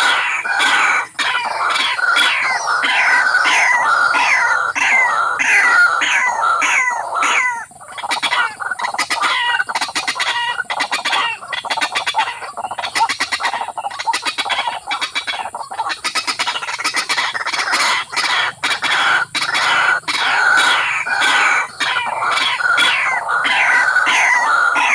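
A water bird of the rail family calling loudly: a fast series of short, falling calls, broken midway by a stretch of rapid rattling notes, then the series resumes.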